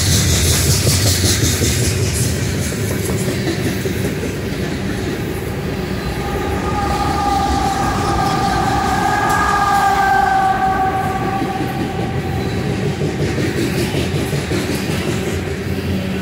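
Freight train of covered grain hopper cars rolling past, with steady wheel-on-rail rumble and clickety-clack. Around the middle, the mid-train GE ES44C4 distributed-power locomotives go by, adding a whine that swells and then fades.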